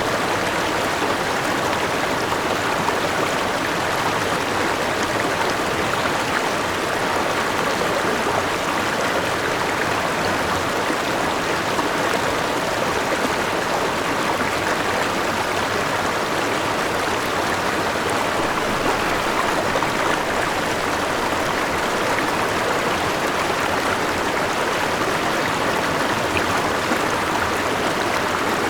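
River with a natural waterfall flowing, a steady, even rush of water.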